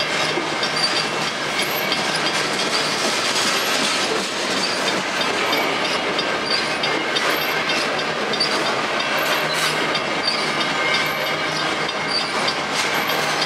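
Covered hopper cars of a potash freight train rolling past at close range: steady wheel-on-rail noise with scattered clicks of wheels over the rail.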